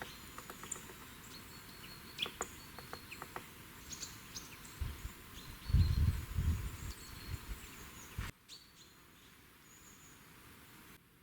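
Forest ambience with small birds giving short high chirps and scattered sharp taps, broken by a few low thuds about midway. The sound drops abruptly to quieter, sparser ambience near the end.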